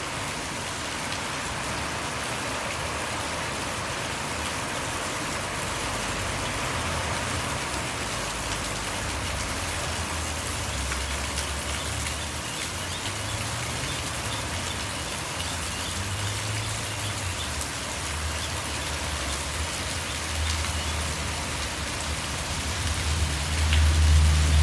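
Steady rain hiss with the low rumble of traffic passing now and then; near the end a vehicle approaches and its rumble grows louder.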